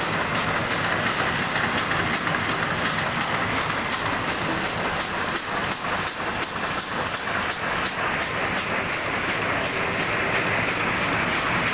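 Oliver 58 engine running at full throttle: a steady hissing noise with faint, evenly spaced beats.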